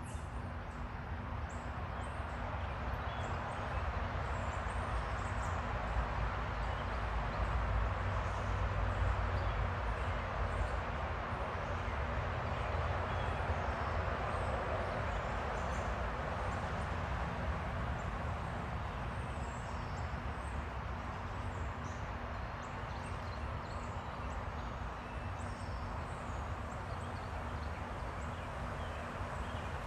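Steady outdoor background noise with a low rumble and a faint hum, over which small birds give scattered faint, short high chirps.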